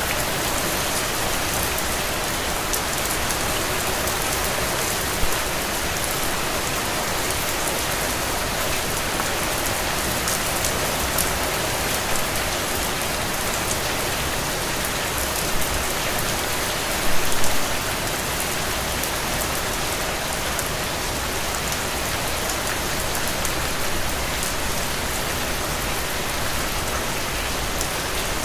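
Heavy, steady rain falling and splashing on the ground, with individual drops heard as fine ticks. A few brief louder splashes come about five seconds in, around fifteen seconds, and a short cluster a little after seventeen seconds.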